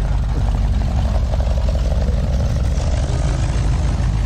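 An engine idling close by: a steady, low, rumbling run with no change in speed.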